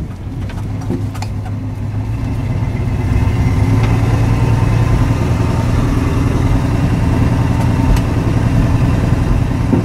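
1965 Chrysler New Yorker's V8 engine running as the car drives, heard from inside the cabin. It grows louder about three seconds in and then holds steady.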